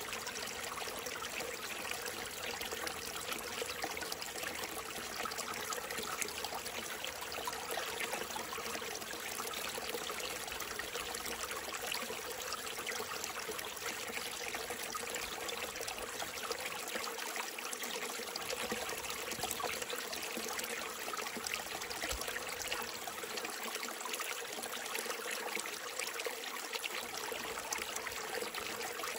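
Small mountain stream trickling and babbling steadily over rocks.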